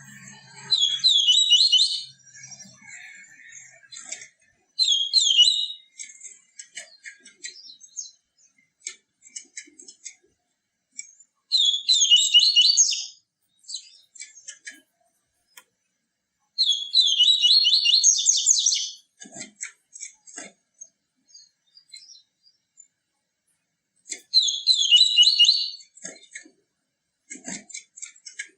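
A papa-capim seedeater singing: about six bursts of quick, repeated, high twittering notes, each one to two seconds long. Softer chips fill the pauses between phrases.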